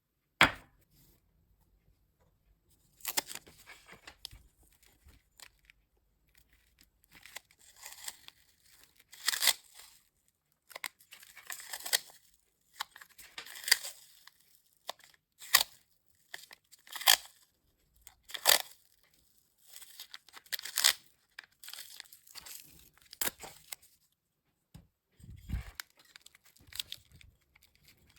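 A dozen or so short rasping scrapes in irregular bursts, each under a second, with pauses between them: hand work on a metal tool part.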